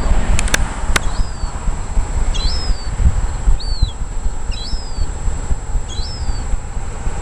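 Wind buffeting the microphone with a steady low rumble, while a bird gives short, high, down-slurred chirps about once a second. Two or three sharp clicks come in the first second.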